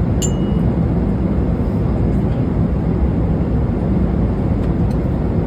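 Airliner cabin noise in flight: a steady low rush of engines and airflow, with one faint click just after the start.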